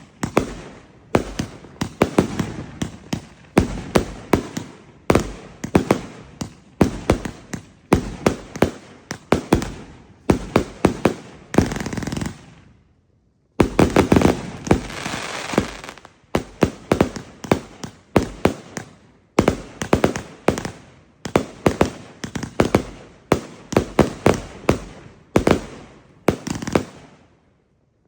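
Smackdown 300-shot fireworks cake firing: rapid volleys of shots, several in quick succession about once a second. There is a brief pause about twelve seconds in, followed by a denser, continuous stretch of shots.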